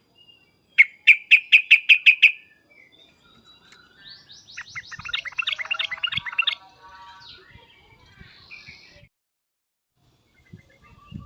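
Yellow-vented bulbul (trucukan) calling agitatedly: a quick run of about eight loud, sharp 'cuk' notes, then a few seconds later a busier burst of chattering notes that trails off into softer ones.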